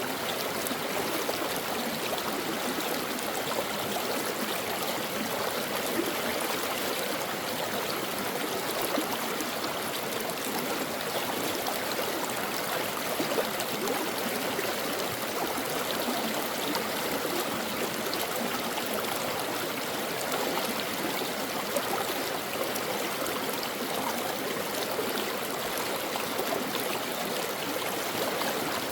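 Brook water flowing and babbling over rocks, a steady rushing with small gurgles.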